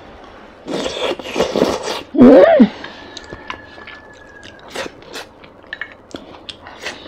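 Close-miked eating sounds as a mouthful of soft braised basa fish fat is taken in and chewed: a loud burst of mouth noise about a second in, then a short hummed voice sound that rises and falls in pitch, then quieter chewing with small clicks.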